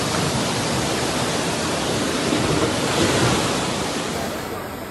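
Floodwater rushing through a street: a loud, steady rush of fast-moving water.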